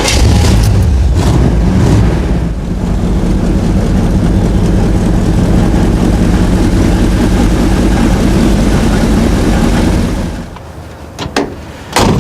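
A 1964 Chevrolet Impala's 327 V8 with a four-barrel carburettor catching as it is started, revving briefly, then running steadily at idle. The engine sound falls away about ten seconds in, followed by two sharp knocks near the end.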